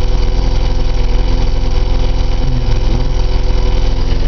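Austin Allegro 1300's 1275 cc A-series four-cylinder engine idling steadily just after a cold start, its oil still thick from the frost and left unrevved.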